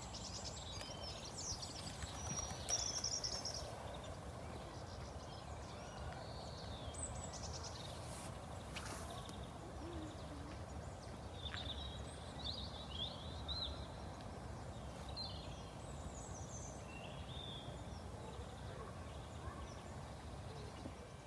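Birds calling with short, scattered chirps over a faint, steady outdoor background hum.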